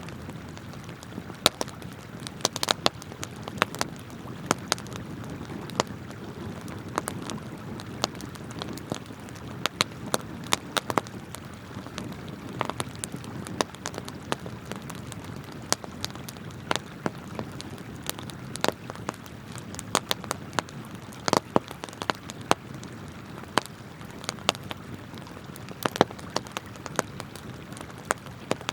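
Wood campfire crackling, with sharp irregular pops and snaps several times a second over the steady rush of flowing river water.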